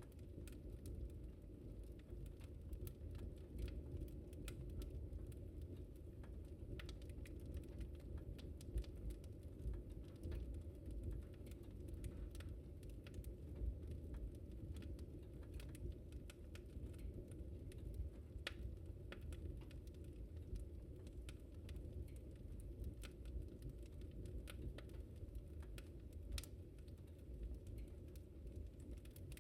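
Wood fire crackling in a fireplace: irregular sharp crackles and pops, some louder than others, over a steady low rumble of the burning fire.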